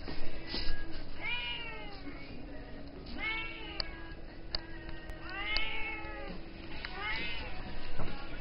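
Bombay cat meowing four times in a row, each meow about a second long and rising then falling in pitch: insistent attention-seeking meows at her owner's homecoming.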